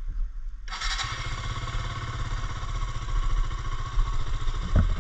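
Motorcycle engine cold-started: it catches under a second in and settles into a steady idle, with one short knock near the end.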